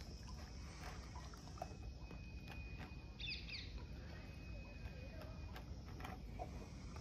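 Faint outdoor background with a bird giving a quick double chirp about three seconds in, over a thin steady high tone and scattered faint ticks.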